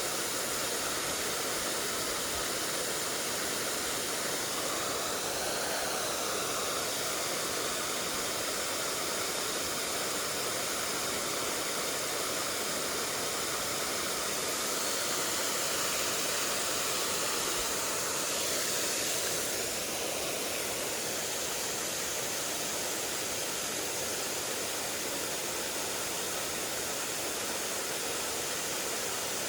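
Mountain stream water rushing steadily over rocks, a continuous even rush that swells slightly a little past halfway.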